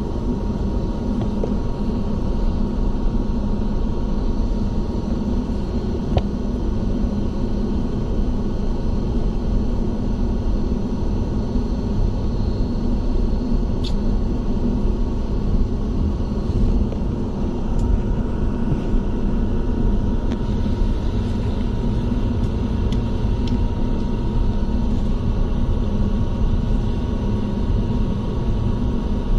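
Indian Railways express train with LHB coaches running: a loud, steady rumble with a faint steady whine and a few light clicks.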